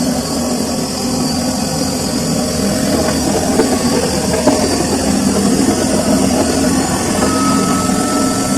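Samsung washing machine running through its cycle, a steady mechanical hum with a few light clicks; a faint high tone comes in near the end.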